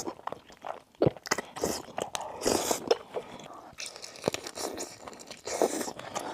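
A person chewing and biting crunchy food, with irregular sharp crunches; the loudest bites come about a second in and again just past four seconds.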